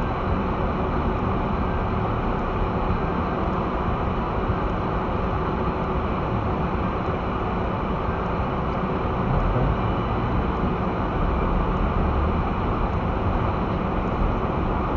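Steady noise of an all-wheel-drive vehicle driving on snow-covered streets, heard from inside the cabin: engine and tyre noise as a low, even drone with no sudden events.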